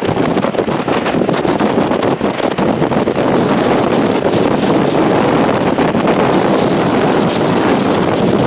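Typhoon wind blowing hard and steadily, buffeting the microphone with a dense, unbroken rush.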